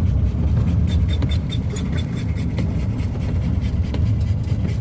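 Inside a car driving through a rainstorm: a steady low rumble of road and engine noise, with rain ticking sharply on the roof and windshield.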